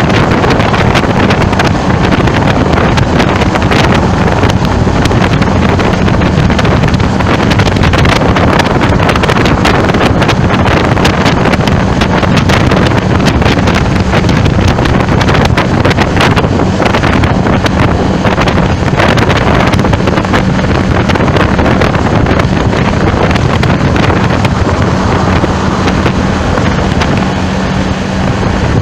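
Heavy wind buffeting the microphone in rapid, uneven flutters over steady traffic noise, with a constant low hum underneath.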